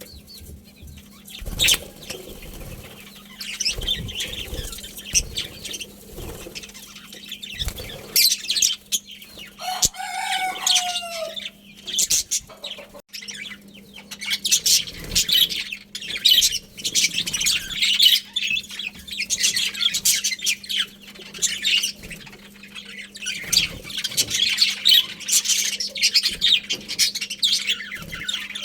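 A flock of budgerigars chirping and chattering continuously in high, rapid twitters. A single lower, falling call stands out about ten seconds in, over a steady low hum.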